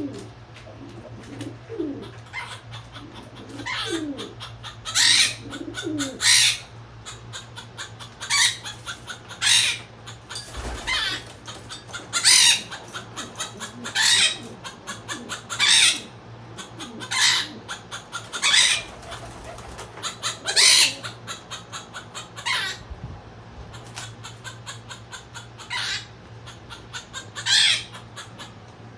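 Birds calling, with short loud cries about every second or so over a steady low hum.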